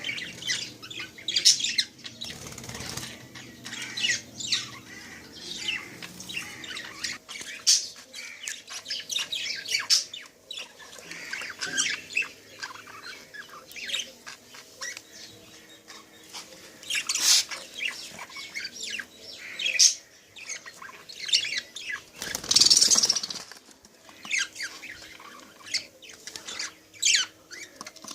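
Lovebirds chattering with rapid, high-pitched chirps and squawks. A burst of wing flapping comes about two-thirds of the way through.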